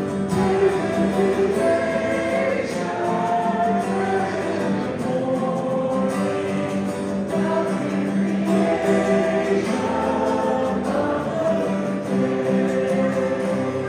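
A congregation singing a hymn together in held, steady notes.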